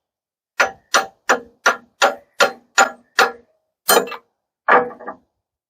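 Hammer blows driving a steel loader bucket pin home through its bracket: a fast run of ringing metallic strikes, about three a second, then a few slower blows near the end.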